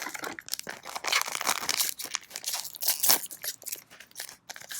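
Foil trading-card booster pack wrapper crinkling and tearing open, an irregular crackle.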